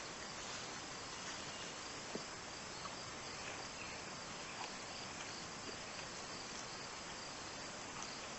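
Steady outdoor background: insects trilling high and continuous, with a few faint ticks. No gunshot is heard.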